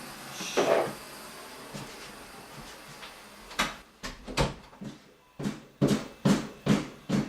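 Plunger being worked hard in a blocked toilet: a run of sharp, irregular thuds, a few a second, starting about three and a half seconds in.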